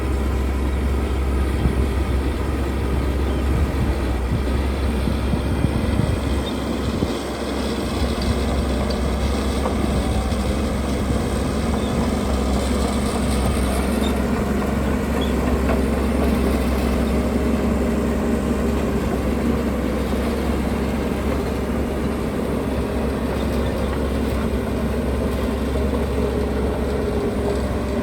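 Heavy construction machinery's diesel engine running steadily with a deep rumble, easing briefly about seven seconds in.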